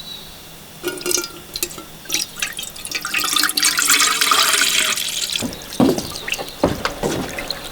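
Water running and pouring into a vessel, swelling to a strong hiss mid-way, followed by a series of knocks and clinks of cookware.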